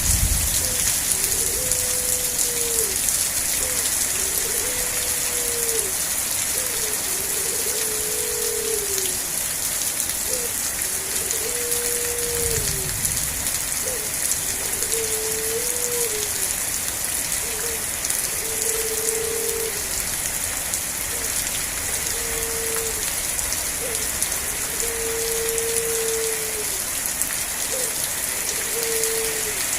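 Steady rain, a dense even hiss. A short low-pitched call or tone repeats through it, one about every two seconds.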